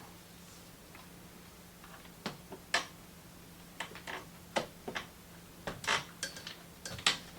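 Small hard parts of a ceiling light fixture being handled and worked loose: a dozen or so irregular clicks and clinks, several close together near the end, over a faint steady hum.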